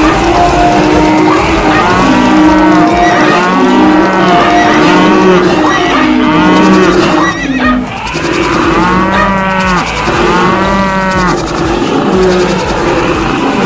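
Cattle mooing over and over, loud overlapping calls one after another, with a short break about seven seconds in.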